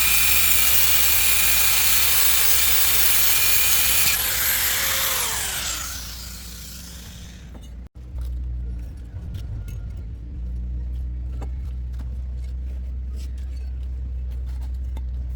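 A high-speed power tool runs steadily, is switched off about four seconds in and winds down with a falling whine. After a short break a low steady hum continues, with faint clinks.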